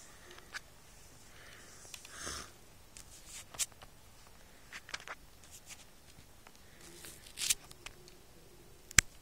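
Quiet small-room tone broken by scattered soft clicks and rustles, with one sharp click near the end.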